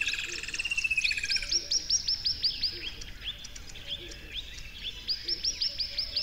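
Small birds singing: a buzzy trill over the first second and a half, then runs of quick chirps that each sweep down in pitch, about six a second, the second run starting about five seconds in.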